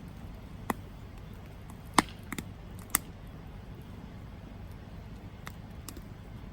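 Campfire burning with a steady low rush, broken by sharp wood crackles and pops: one about a second in, the loudest about two seconds in followed quickly by a double pop, another a second later, and a few fainter snaps after that.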